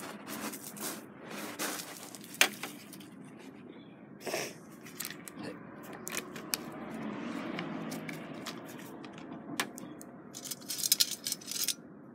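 Hot water being poured from a small metal pot or kettle, a steady rush for about three seconds in the middle, amid sharp clinks and knocks of metal cookware being handled, with a quick run of clinks near the end.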